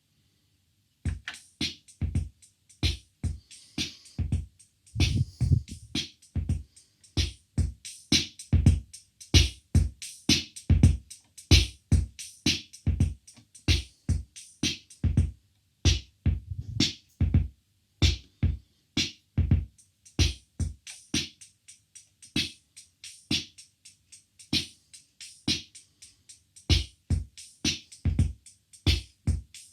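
Roland CR-68 CompuRhythm analogue drum machine playing a preset rhythm pattern: deep bass-drum thumps with snare and hissy hi-hat hits in a steady beat, starting about a second in.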